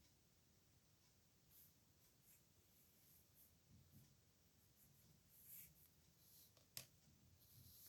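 Pen nib scratching faintly on paper in short, irregular strokes, with one sharp tick about seven seconds in.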